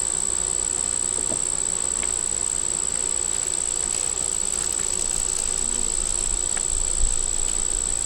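Honey bees buzzing around an opened, agitated hive, under a steady high-pitched insect drone, with a low rumble in the second half.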